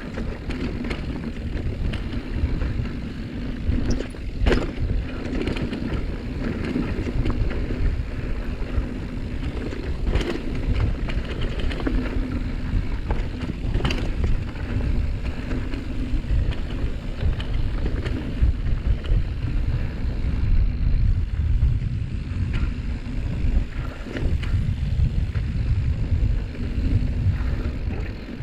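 Mountain bike rolling down a dusty dirt singletrack: a steady low wind rumble on the microphone over tyre noise, broken a few times by sharp clanks from the bike.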